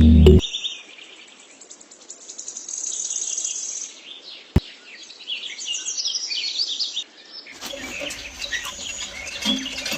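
Small birds chirping in quick, high, repeated calls. A single sharp click about halfway through, and a fuller outdoor background noise joins under the chirping about three-quarters of the way in.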